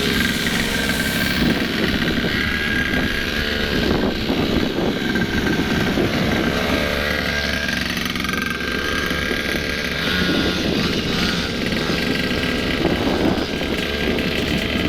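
A motorcycle engine running steadily at a fairly even pitch.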